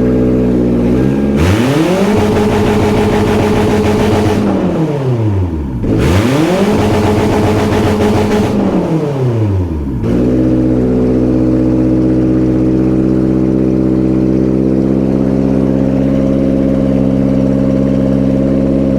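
2007 Ford Explorer engine running after being restored to starting: revved up twice, each rise held a few seconds before falling back, then settling into a steady idle.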